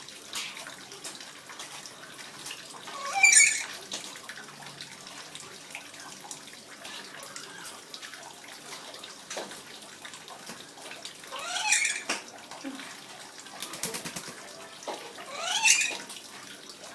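Water running steadily while a pet lory bathes. The bird gives three loud, high-pitched squawks, one a few seconds in, one about twelve seconds in and one near the end.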